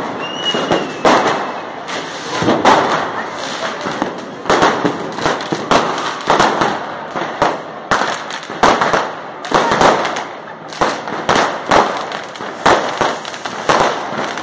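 New Year's Eve fireworks and firecrackers going off all around: an irregular, continuous stream of sharp bangs and cracks, several close together at times, each with an echoing tail.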